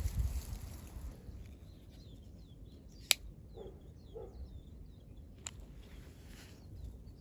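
Small birds chirping faintly in a run of short, quick calls, with two sharp snaps about two and a half seconds apart, the first much louder.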